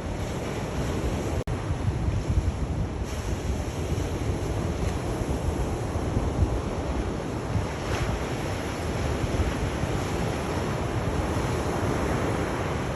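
Sea waves washing onto a shore, a continuous rushing surf with a deep rumble from wind on the microphone. There is a momentary dropout about a second and a half in.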